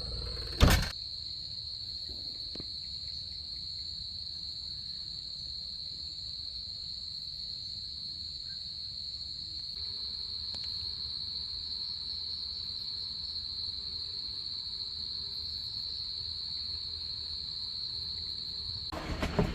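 Steady, high-pitched trilling of night insects, unbroken throughout. A single sharp knock comes about a second in, and a few clicks near the end.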